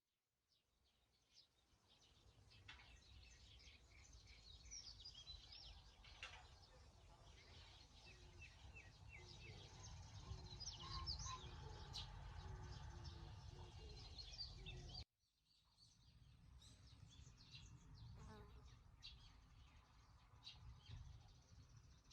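Faint wild birdsong: small birds chirping and calling over a low steady rumble. The sound cuts off abruptly about fifteen seconds in and resumes a moment later.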